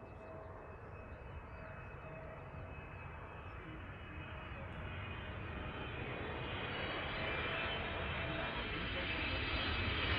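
A large jet airliner on approach to land, its engine noise with a high whine growing steadily louder as it comes in.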